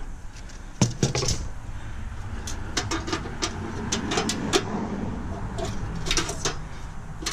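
Scattered light clinks and knocks of stainless-steel parts and screws being handled while a steamer is dismantled.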